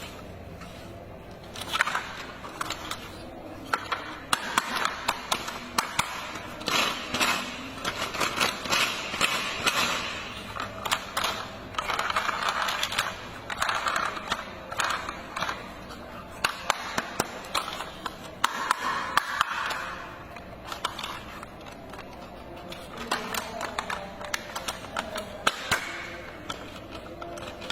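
Plastic toy parts handled and fitted together: a string of irregular clicks and rattles.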